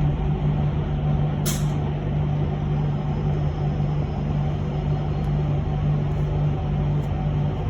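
Cabin noise of a moving electric bus: a steady low hum over road rumble, with one short, sharp hiss of air about one and a half seconds in.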